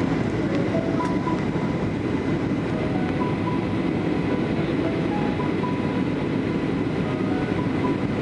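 Steady rumble of airliner cabin noise, engines and airflow heard from inside the cabin, with a few faint short beeps.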